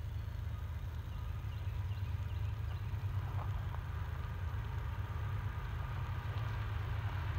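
Distant approaching train, a low rumble slowly growing louder, with a faint steady whine above it.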